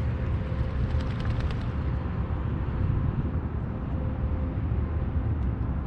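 Steady low outdoor rumble, with a faint steady hum above it, and a few faint ticks in the first second or two.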